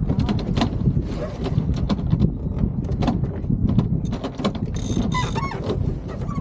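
Sailboat deck hardware (ratchet blocks and winches) clicking and rattling repeatedly as sheets are worked, over a low rumble of wind on the microphone. A brief high-pitched tone sounds about five seconds in.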